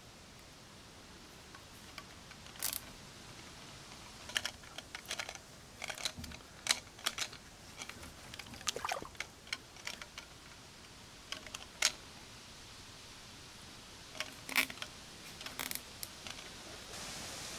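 Irregular light clicks and clacks of small hard objects being handled, coming in short clusters over a faint steady hiss.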